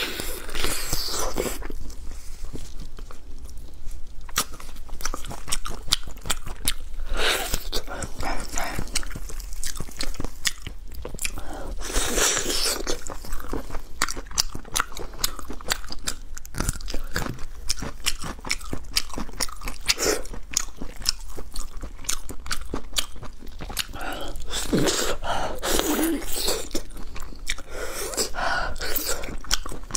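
Close-miked biting and chewing of braised pork trotter: wet, sticky mouth sounds with many sharp clicks and smacks, in louder clusters every few seconds.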